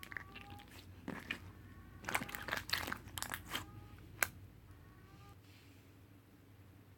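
Close crunching and chewing of food, with sharp clicks and a few brief faint squeaks, tapering off after about four and a half seconds.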